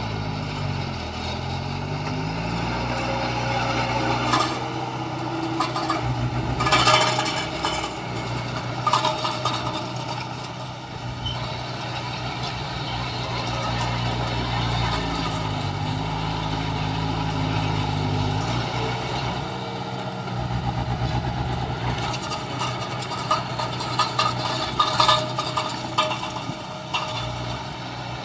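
Heavy diesel engine of earthmoving machinery running, its pitch dropping and rising as it is throttled down and up, with several loud metal clanks and knocks in between.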